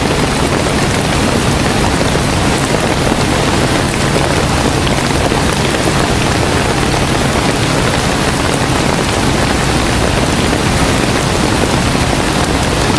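Heavy rain pouring down steadily as a dense, even hiss, with scattered drop ticks and a low steady hum underneath.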